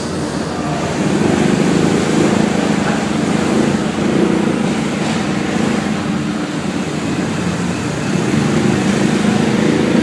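A motor vehicle's engine running with a steady rumble as it drives, louder from about a second in.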